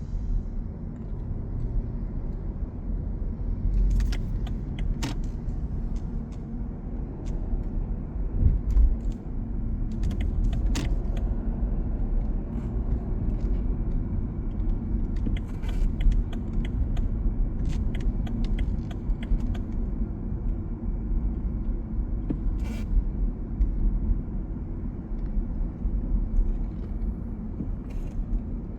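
Steady low rumble of road traffic on a rain-wet city street, with scattered short, sharp clicks through it.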